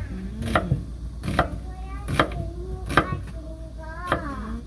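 A steady series of sharp knocks, about one every three-quarters of a second, with a high, wavering humming voice between them.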